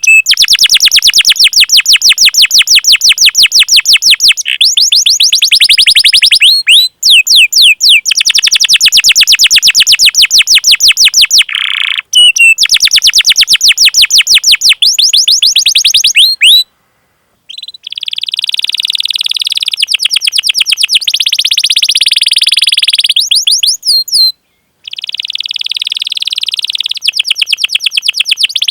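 Domestic canary singing long, rapid rolls of evenly repeated high chirps. The rolls are broken by a few short pauses, with quick rising whistled notes between phrases.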